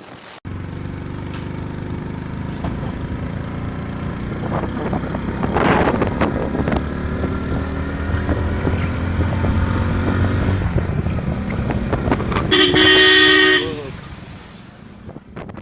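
Motorcycle riding in traffic, engine and road noise steady, then a vehicle horn blares once for about a second near the end.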